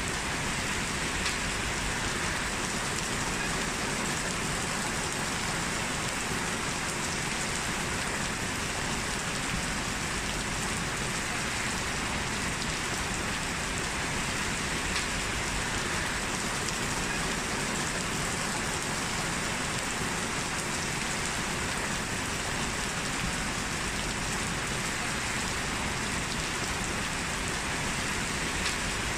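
Steady rain falling, an even hiss of drops with faint scattered drips.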